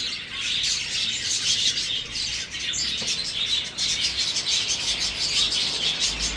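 Small birds chirping continuously, many quick high chirps overlapping.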